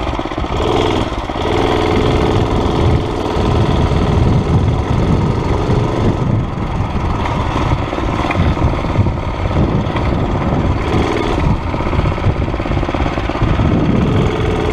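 Murray mini bike's Tecumseh small engine running continuously on fresh gas after a carburetor cleaning, its note shifting slightly in pitch as the throttle changes. It runs with no air filter, breathing cold air, which the rider blames for a little hesitation.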